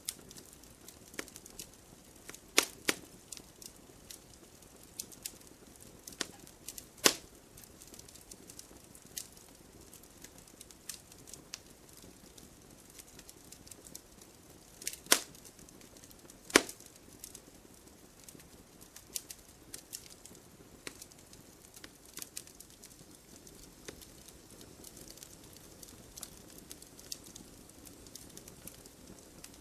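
Bonfire crackling: a soft steady hiss with frequent small pops and snaps, four of them much louder and sharper than the rest.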